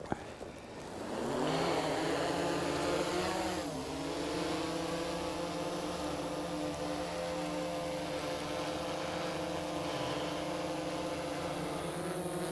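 DJI quadcopter drone's propellers spinning up about a second in for takeoff, the buzzing pitch rising, then holding a steady hover with a brief dip in pitch a few seconds later.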